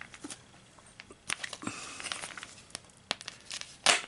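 MRE plastic-and-foil packaging crinkling and rustling as it is handled, with scattered sharp clicks and a louder crackle near the end.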